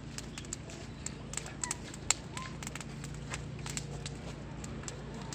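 Irregular sharp crackles and pops of a burning kagaribi bonfire over a steady low hum.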